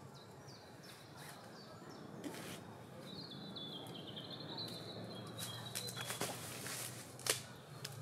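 A songbird singing a thin, wavering high phrase a few seconds long in the middle, with a few short chirps before it. A few sharp knocks from someone climbing a tree, the loudest near the end.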